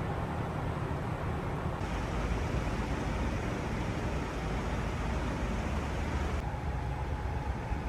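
Steady vehicle running noise: a low rumble with road hiss over it. The hiss grows brighter about two seconds in and duller again near the end.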